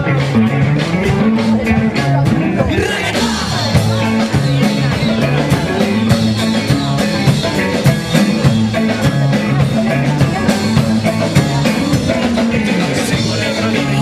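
Live band playing an upbeat rock and ska groove, with drums and a repeating bass line, and a voice singing over it.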